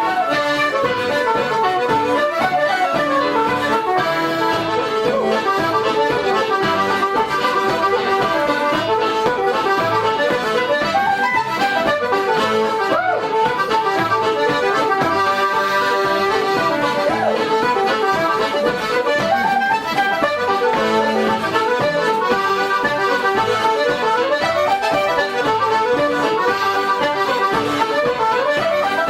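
Irish traditional reels led by accordion, a continuous run of quick melody notes at an even level.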